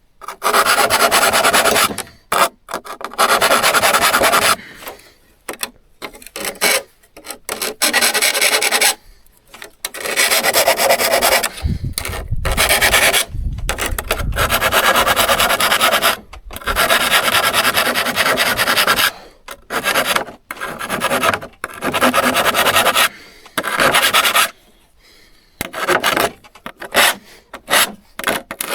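Repeated hand strokes scraping on the steel of a hand saw being restored, in separate strokes of about half a second to two seconds with short breaks between them.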